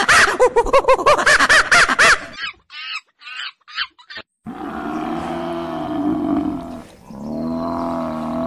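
Animal calls: a fast run of short, high-pitched calls for about two seconds, a few fainter short calls, then two long, low, drawn-out calls.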